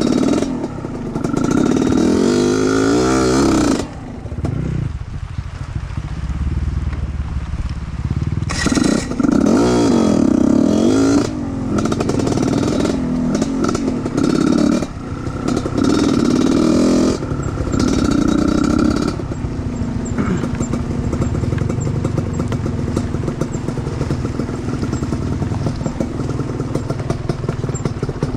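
Off-road trail motorcycle engine revving in repeated throttle bursts, its pitch sweeping up and down, then running more steadily for the last third.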